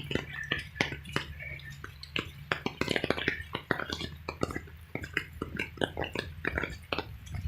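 Raindrops tapping irregularly close to the microphone, several sharp taps a second, over a low steady hum.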